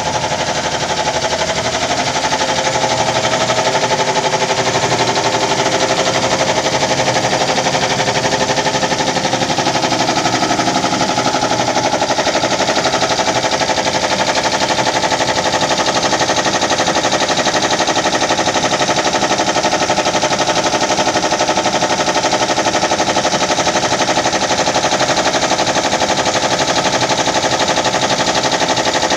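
Industrial air compressor running steadily and loudly, with a fast, even pulsing chatter under a constant machine drone.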